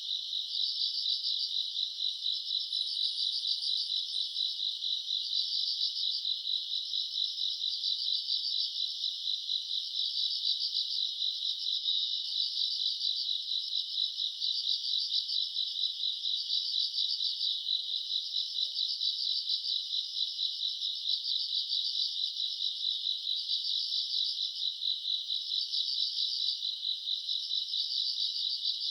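Summer-night chorus of grass insects singing together: a dense, steady, high-pitched trilling with a fine, fast pulsing that never stops.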